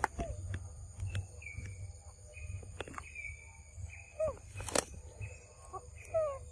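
Birds calling: short high chirps repeated every second or so, with a few falling notes, over a low steady rumble. A few sharp clicks break in, the loudest just before five seconds in.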